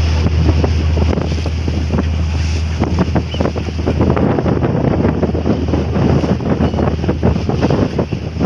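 Catamaran ferry under way: a steady low engine drone under the rush of wind buffeting the microphone and water streaming past the hull.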